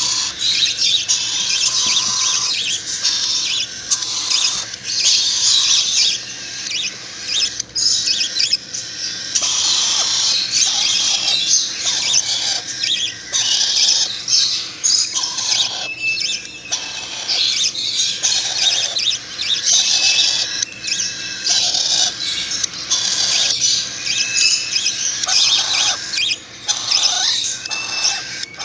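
Bird chicks begging to be fed: a dense, high-pitched chorus of squeaky calls, with brief pauses.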